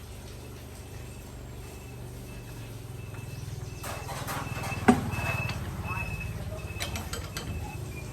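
Quanchai D15 diesel engine running with a steady, rapid low beat that grows louder partway through. A sharp metallic knock comes about five seconds in, and a few lighter clicks follow.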